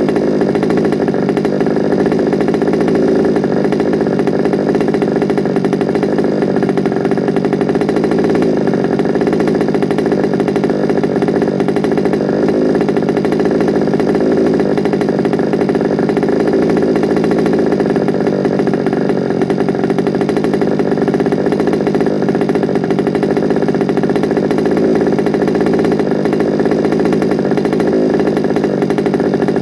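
Two-stroke petrol engine of an FG Sportsline large-scale RC car running steadily, with no clear revs, during its first start-up.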